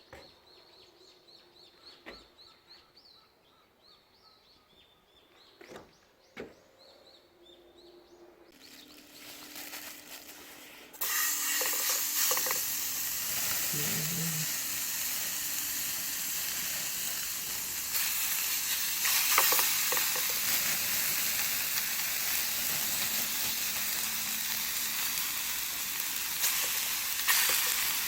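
Quiet at first with faint bird chirps and a few clicks, then a hiss builds. About 11 seconds in, food hits a hot pan with a sudden loud sizzle that carries on as steady frying.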